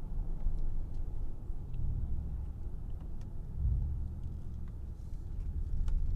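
Mercedes-AMG G63 with its twin-turbo V8 being driven, heard from inside the cabin as a steady low rumble of engine and road.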